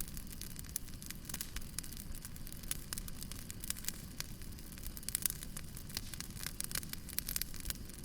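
Crackling fire: many irregular sharp pops and snaps over a steady low rumble of the flames.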